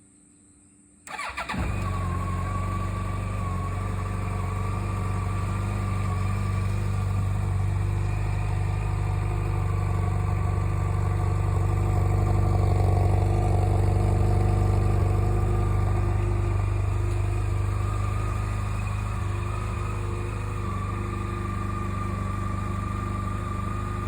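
Yamaha FJR1300's inline-four engine cold-started: a brief crank about a second in, then it catches almost at once and idles steadily, getting a little louder through the middle and easing down somewhat toward the end.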